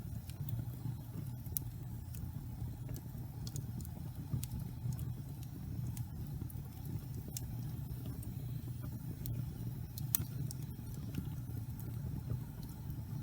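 Wood fire burning in a fireplace: a steady low rumble of flames with scattered sharp crackles and pops at irregular moments, the loudest about ten seconds in.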